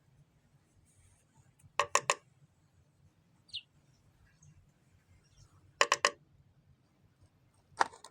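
A bird pecking its beak against window glass: three quick knocks, then three more a few seconds later, then a single knock near the end. A short faint chirp comes between the first two groups.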